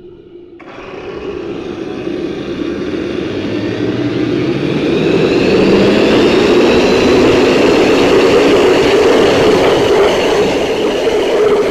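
RAM-1000 turbine engine spooling up: a rushing whine that rises in pitch and grows louder over about five seconds, then runs steadily at speed.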